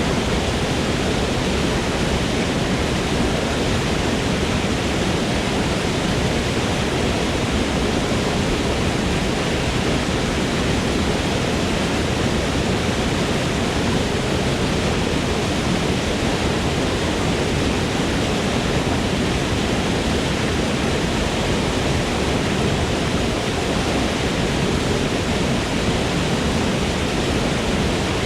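Forest waterfall rushing steadily: a dense, unbroken roar of falling water with no changes.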